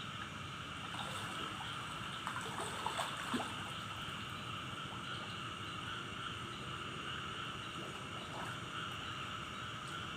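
Steady running, trickling water, with a few brief splashes or clicks about two to three and a half seconds in.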